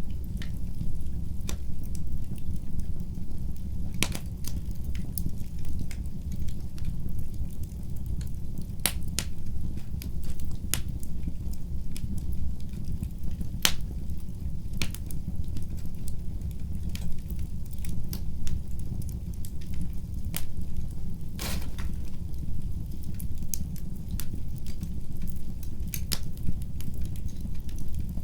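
Wood fire burning in a fireplace: a steady low rumble of the flames with scattered sharp pops and crackles from the burning logs, a few louder snaps among them.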